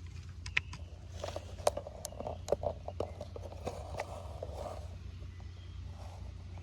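1/18-scale RC rock crawler (FMS FCX18) driving over stones: its small electric motor and gears whir from about a second in until near the end, with a run of sharp clicks and scrapes from the tyres and chassis on rock.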